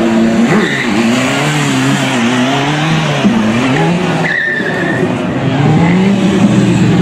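BMW S1000RR's inline-four engine revving up and down under stunt riding, over a steady hiss of a skidding tyre, with a brief high tyre squeal about four seconds in.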